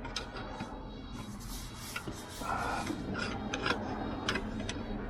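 Metal parts scraping and rubbing with scattered clinks and knocks, as rear engine mount hardware is worked back into place by hand. A brief metallic ring sounds about two and a half seconds in.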